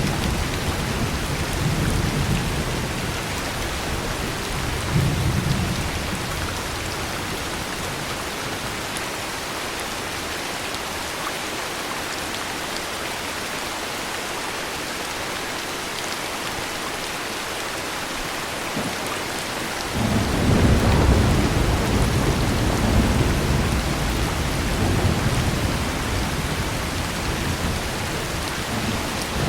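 Heavy rain falling steadily with a continuous hiss. Thunder rumbles in the first few seconds and fades. About twenty seconds in a loud low thunder rumble sets in suddenly and rolls on to the end.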